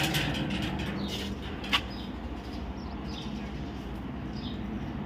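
A bird chirping: short high calls that fall in pitch, repeated every second or so. A rustle at the start and one sharp click about a second and a half in.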